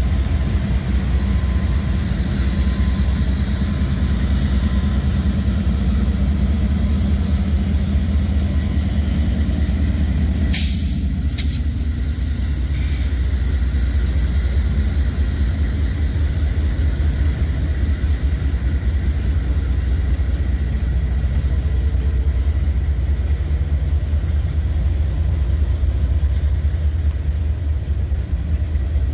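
CSX manifest freight train rolling past close by: the trailing diesel locomotive, then a string of boxcars and tank cars, making a steady low rumble. Two brief sharp high-pitched sounds come about eleven seconds in.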